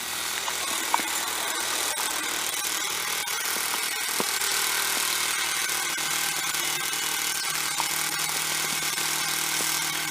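Small snowblower engine running steadily.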